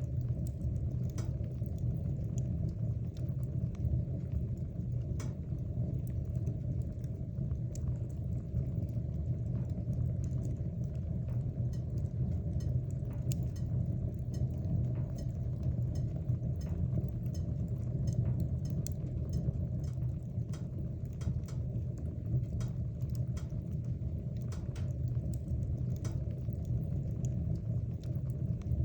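Wood fire burning in a fireplace: a steady low sound of the flames, with frequent, irregular small crackles and pops of the burning wood.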